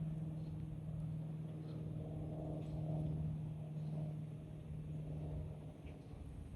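A steady low engine hum at one held pitch over a low rumble, easing off slightly near the end.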